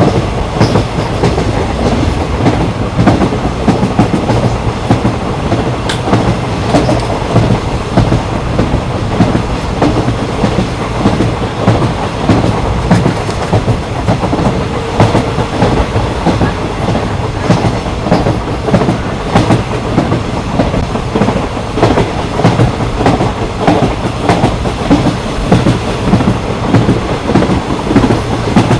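Train rolling along the track: a steady rumble of the carriage with wheels clicking over the rail joints in a repeating rhythm of frequent short knocks.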